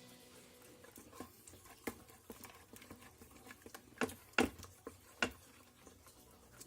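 A utensil stirring cheese sauce in a saucepan: irregular light clicks and scrapes against the pot, with a few louder knocks about four to five seconds in.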